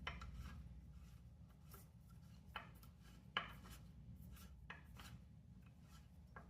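Near silence with about five faint, sharp clicks spaced a second or so apart, the clearest about three and a half seconds in. These are small metal clicks from turning a kickstand mounting bolt in with a 10 mm T-handle while the stand is held in line.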